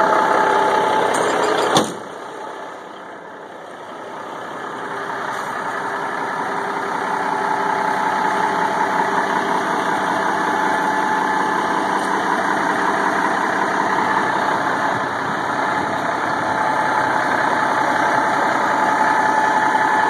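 Caterpillar 3406B inline-six diesel in a Kenworth W900 running steadily. About two seconds in there is a single sharp knock, after which the sound drops quieter and then builds back up over several seconds.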